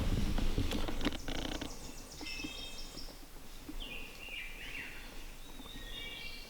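Birds calling in short, high chirping phrases, with rustling and a few soft knocks in the first second or so.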